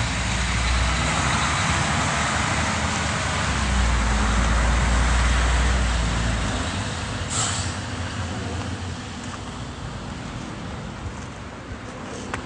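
Heavy road vehicle passing close, its engine rumble and road noise loud at first, then a short hiss like air brakes about seven seconds in, and the noise fading away.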